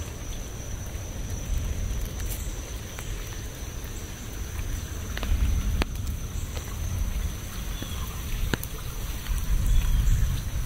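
Rain falling steadily, with scattered sharp drop ticks over a low rumble. A thin, steady high tone runs underneath.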